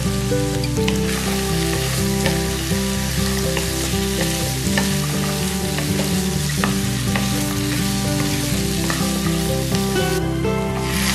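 Diced potatoes and green peas sizzling steadily in hot oil in a nonstick frying pan, stirred with a wooden spatula that gives a few light knocks against the pan.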